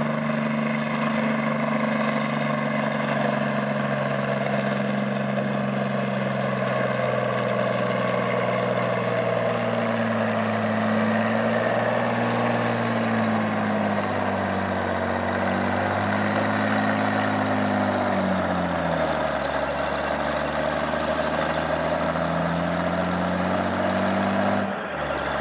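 International 660 tractor engine running under load while pulling the sled. Its pitch wavers and then sags about two-thirds of the way through, climbs slowly again, and falls away abruptly near the end.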